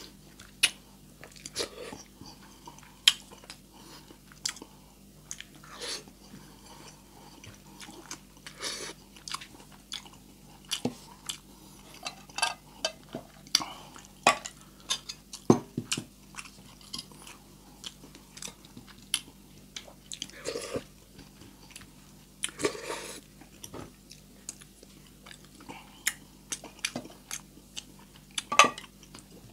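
A person chewing a mouthful of sardines and rice, with irregular short clicks and taps, some from open tin cans being handled.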